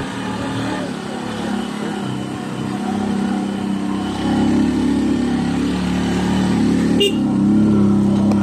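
A small motorbike engine runs steadily while riding and gets louder from about four seconds in. There is one short click about seven seconds in.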